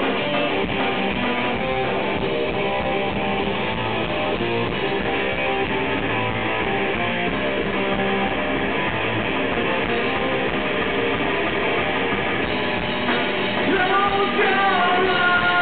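Live rock band music led by strummed guitar, with a singing voice coming in near the end.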